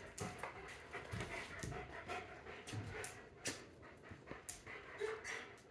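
A dog panting in quick, faint breaths.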